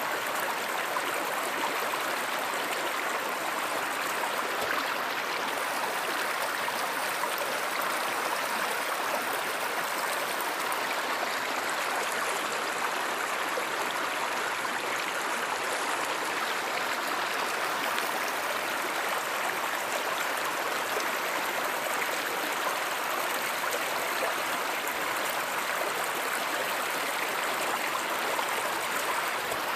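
River water running over stones, a steady, unbroken rush of flowing water.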